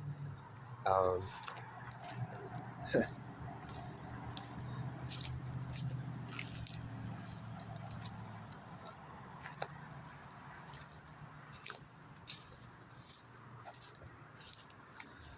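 Outdoor insect chorus: a steady, unbroken high-pitched drone, with a faint low rumble of distant road traffic beneath it.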